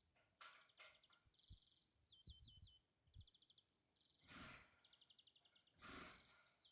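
Near silence, with small birds chirping in short repeated high trills and a couple of soft rushes of noise.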